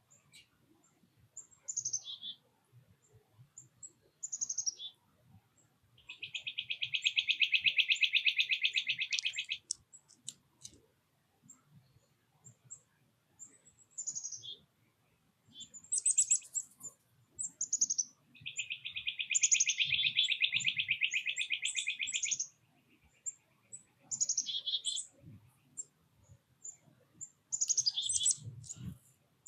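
Songbirds singing: short whistles that slide steeply down in pitch, repeated through the stretch, and two long rapid trills, one about six seconds in and one about eighteen seconds in.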